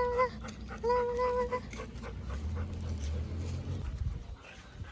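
A dog whining in two long, steady high notes, the second one short, in the first second and a half, followed by low rumbling noise.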